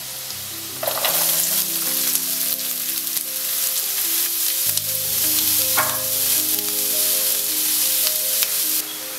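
Chopped onions hit hot coconut oil in a pan and sizzle, the sizzle starting suddenly about a second in. Background music of held notes plays underneath.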